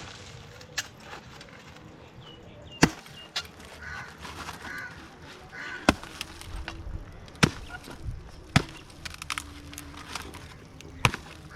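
About seven sharp strikes at uneven intervals, like chopping, with a few crow caws in between.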